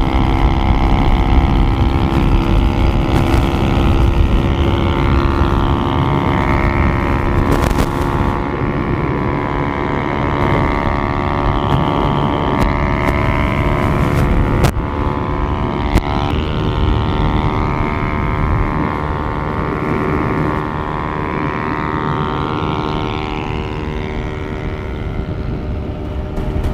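Two sport motorcycles, a Pulsar RS200 and a modified Yamaha R15 V3, cruising together at a steady highway speed: an even engine note with heavy wind rumble on the microphone. The engine note shifts slightly about two-thirds of the way through.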